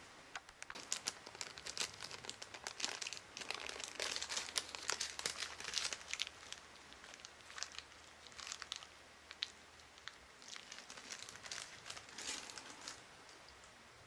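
Crinkling and crackling of something crumpled or handled by hand, in dense irregular bursts that thin out midway, pick up again, then stop shortly before the end.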